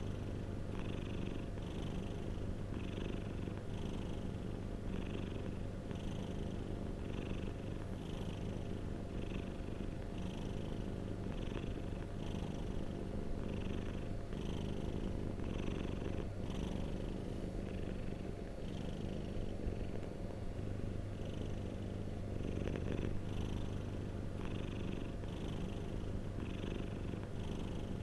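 Domestic cat purring steadily, the purr swelling and easing with each breath about every two-thirds of a second.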